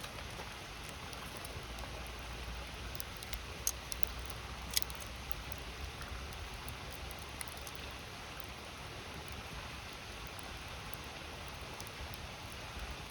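Wood fire crackling with scattered sharp pops, two of them louder about four and five seconds in, over the steady rush of a river.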